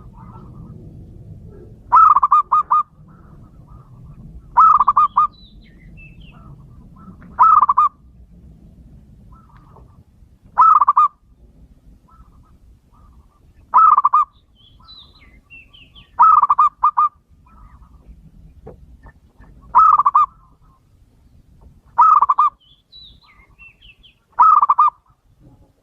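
Male zebra dove (perkutut) cooing: a short phrase of quick, rattling coo notes, repeated nine times about every three seconds, with faint chirps from other birds in between.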